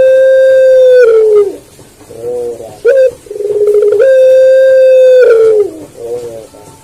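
Puter pelung dove cooing: two long coo phrases. Each opens with a short sharp note and a quavering note, then holds a long, clear, steady coo for about a second before falling away, with soft low notes between the phrases.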